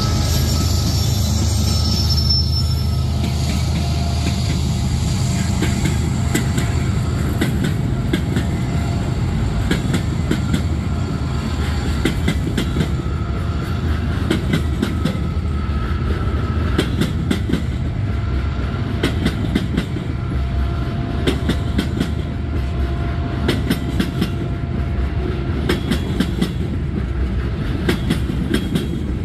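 CSX freight train rolling past: the diesel locomotives' engines rumble at first, then the cars' wheels clatter over the rail joints with a steady run of clicks, and faint wheel squeal comes and goes.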